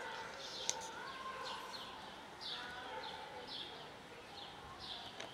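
A small bird chirping repeatedly: short, high, falling chirps about twice a second over faint outdoor background noise, with one sharp click a little under a second in.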